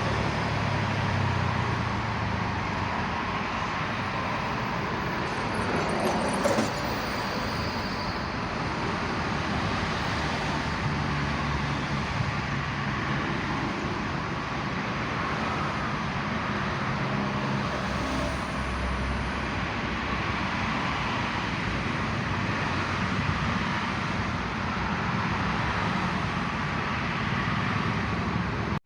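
Steady motor-vehicle noise: a constant rush with a low engine hum that swells and fades, and a brief sharp click about six and a half seconds in.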